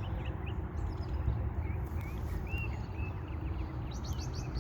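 Small birds chirping outdoors, many short high calls and whistled notes, over a low rumble of wind on the microphone, with a few light clicks near the end.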